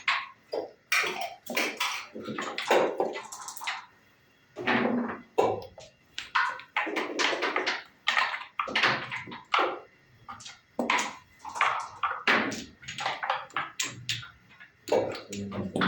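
Backgammon dice and checkers clattering on the board in play: a rapid, uneven run of sharp clicks and knocks.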